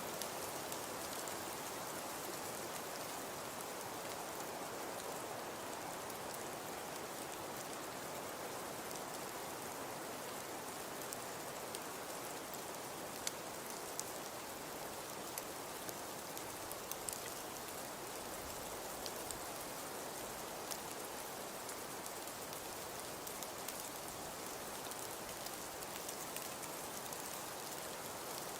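Fireplace crackling: a steady hiss with scattered sharp pops, a few of them close together about halfway through.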